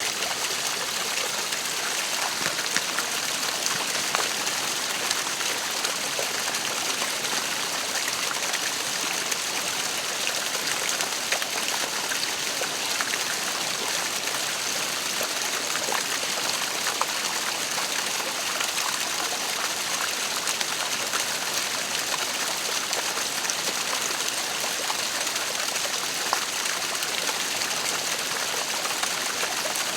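Waterfall splashing steadily: a constant, even rush of falling water with fine splashes throughout.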